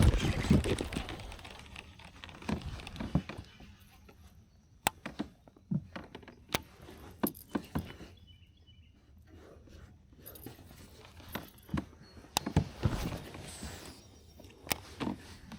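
Scattered knocks, thunks and small clatters of fishing gear being handled aboard a kayak, with two longer rustling swells, one at the start and one about two-thirds of the way through.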